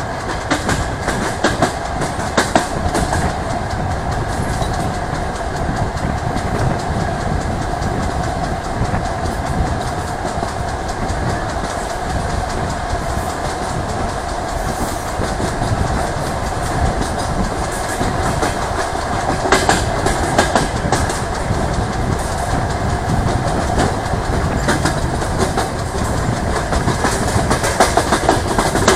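DR1A diesel multiple unit running along the line, heard through an open carriage window: a steady rolling rumble with a constant hum, and the wheels clicking over rail joints in clusters now and then.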